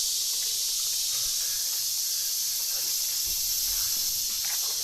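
Steady, high-pitched buzzing of a summer insect chorus, unchanging throughout.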